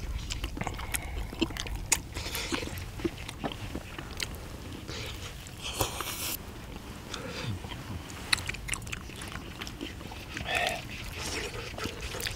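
Several people chewing and biting into spicy braised chicken and chewy beef intestines, with wet mouth sounds and many short, sharp clicks.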